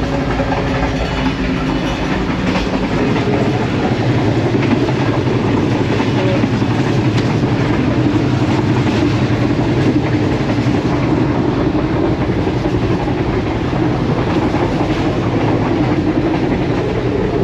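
Passenger train carriage in motion, heard from inside: a steady, loud rumble and rattle of the running train.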